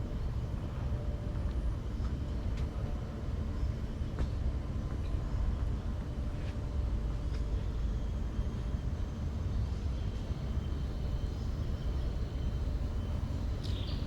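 Steady low outdoor rumble, with a few faint high bird chirps near the end.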